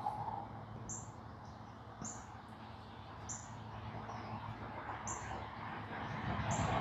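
A bird chirping repeatedly, a short high note about once a second, over faint steady background noise.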